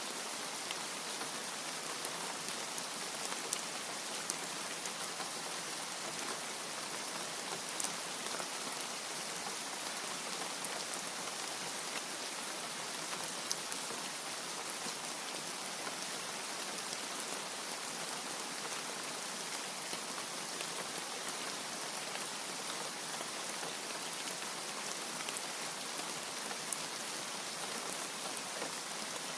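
Steady rain: an even hiss of rainfall with many small, sharp drop ticks scattered through it.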